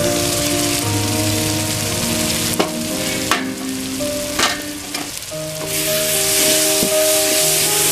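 Mushroom masala curry sizzling in a wide aluminium kadai as it is stirred, with three sharp clinks of utensils on the pan in the middle. The sizzle is loudest near the end.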